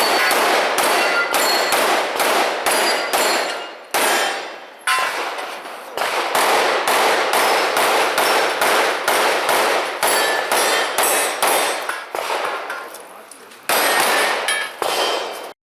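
Rapid strings of pistol shots at steel targets, about three shots a second, each hit followed by the ringing ping of the steel plate. The strings pause briefly twice.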